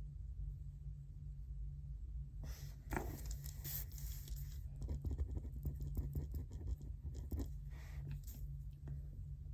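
Paper rustling and scratching, starting about two seconds in and going on for some six seconds in a run of small ticks and scrapes, over a steady low hum.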